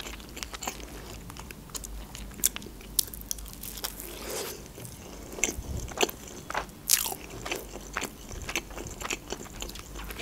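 Close-miked chewing of grilled lyulya kebab: irregular wet mouth smacks and sharp clicks, a few of them louder.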